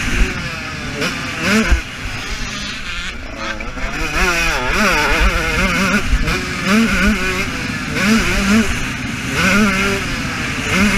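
KTM 125 two-stroke motocross engine heard from on board the bike, revving up and down over and over as the throttle is opened and closed. Its pitch rises in several quick sweeps, with a warbling, wavering pitch a few seconds in.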